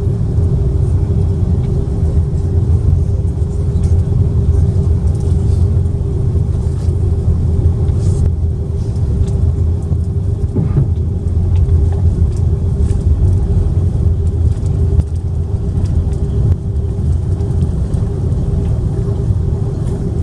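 Steady low cabin rumble inside an Airbus A330-300 on the ground, with a constant hum over it and no change in level.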